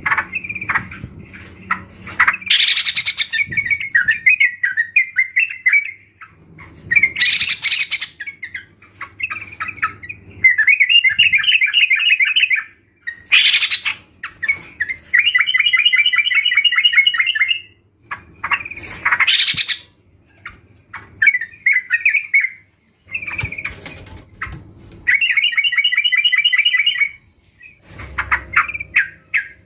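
Yellow-vented bulbuls (trucukan) calling, a group of birds together, in repeated bubbly phrases of rapid chattering notes, each lasting a second or two with short pauses between.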